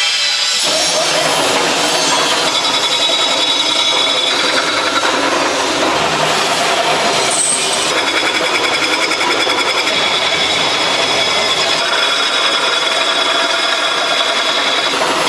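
A power tool running continuously while working material, a loud steady grinding, cutting noise with a faint high whine that shifts a little in tone now and then.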